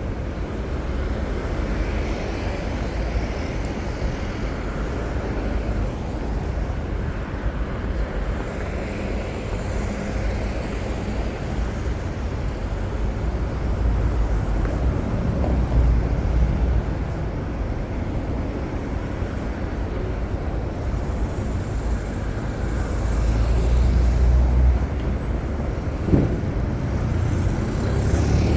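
Road traffic on a city street: a steady wash of passing engines and tyres with a low rumble that swells twice as vehicles go by close, and a single sharp knock near the end.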